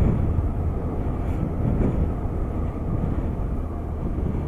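BMW K1200RS inline-four motorcycle engine running steadily at road speed, mixed with wind rushing over a helmet-mounted microphone.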